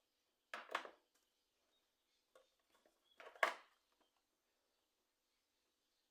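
Two short handling noises, one about half a second in and a louder one about three and a half seconds in, with a few faint small clicks between; then near quiet.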